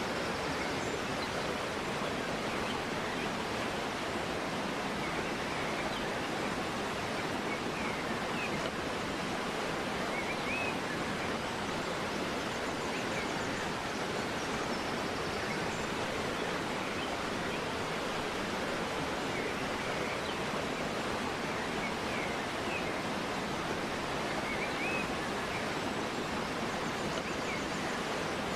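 River water flowing steadily, with faint short bird chirps now and then.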